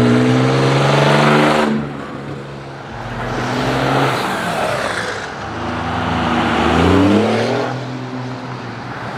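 Car engines revving and accelerating, the engine note rising in pitch over the first two seconds and again about six to seven and a half seconds in, with a rushing noise in between.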